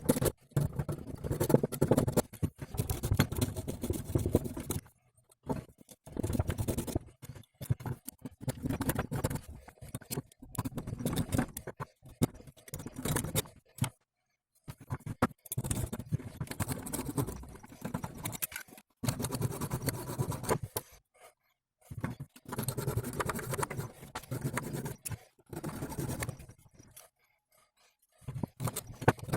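Hand-tool work on a driveshaft universal joint: intermittent scraping and scratching in irregular bursts of a second or two, with short silent gaps between them.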